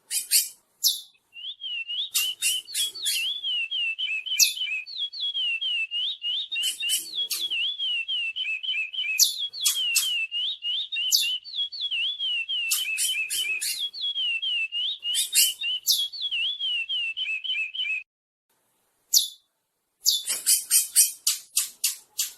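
Curió (chestnut-bellied seed-finch) singing: a long, fast, wavering whistled song laced with sharp high chips, which breaks off about 18 seconds in and resumes in short bursts near the end.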